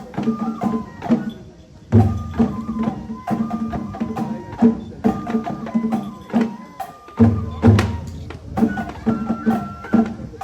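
Japanese festival hayashi accompanying a lion dance: a high bamboo flute playing a stepping melody over a steady drum rhythm with sharp percussion clicks, and two heavy low drum strokes, about two seconds in and again about seven seconds in.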